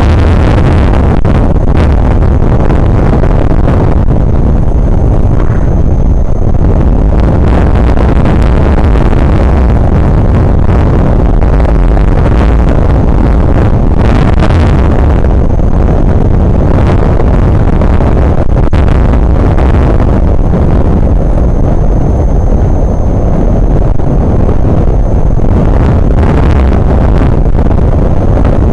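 Strong wind hitting the microphone: a loud, continuous low rumble with gusts surging and easing throughout.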